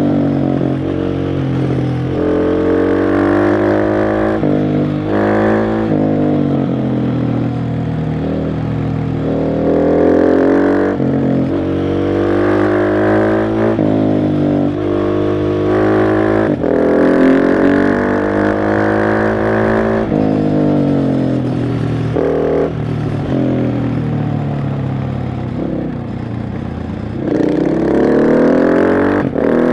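KTM 690 SMC R's single-cylinder four-stroke engine pulling hard and easing off on a winding road. Its revs climb again and again, dropping briefly at each gear change, with falling pitch where the rider rolls off.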